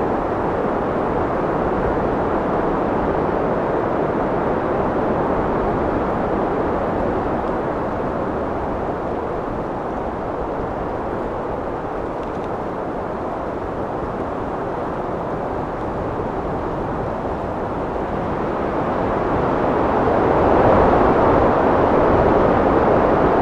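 Wind blowing in a steady low rush, easing a little in the middle and building to a stronger gust near the end.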